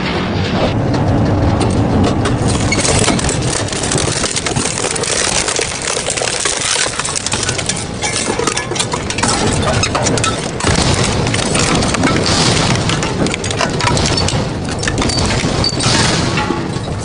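Double-shaft shredder running under load, its blades tearing and crushing metal with a continuous crunching and dense clanking.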